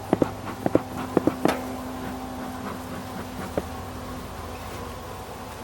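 Beehive frame jolted hard to shake the honeybees off it: a quick series of sharp wooden knocks, mostly in close pairs, in the first second and a half and one more a couple of seconds later, over the steady hum of bees.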